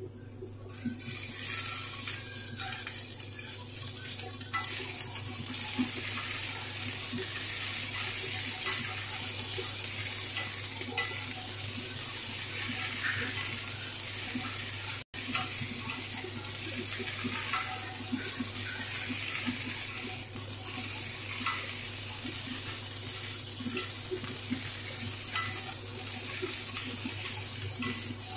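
Okra and potato fries frying in hot mustard oil in a stainless steel kadai, stirred with a wooden spatula. The sizzle grows to a steady hiss about five seconds in, with light scrapes and knocks of the spatula against the pan.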